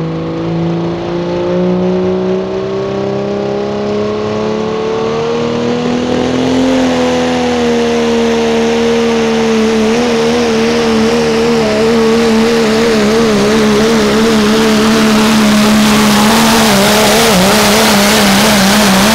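1997 Dodge Ram pulling truck's engine at full throttle on a sled pull. The pitch climbs over the first several seconds, then holds high and wavers, while a hiss grows louder toward the end.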